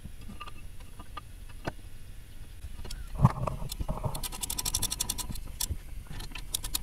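Hand work on brake parts: scattered metal clicks and scrapes, a single knock about three seconds in, then a quick run of rapid clicking for about a second.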